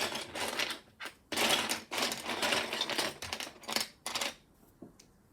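Loose plastic Lego pieces rattling and clattering in several spells, as if being sifted or shaken by hand, stopping about four seconds in.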